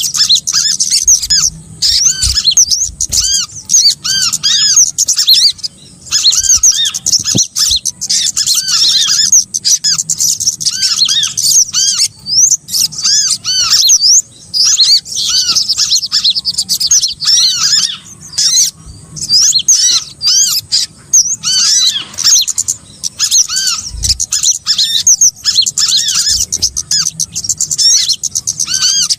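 Bird-lure call track of small songbirds: a dense, continuous chorus of high-pitched chirps and chattering, with rapid repeated arched notes, broken only by brief pauses.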